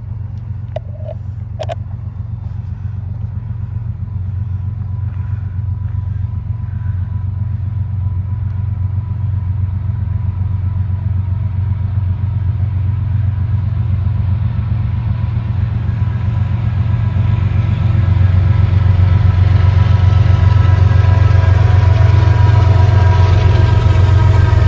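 Diesel locomotive approaching: a low engine rumble that grows steadily louder, with a few steady whining tones coming up over it in the last third.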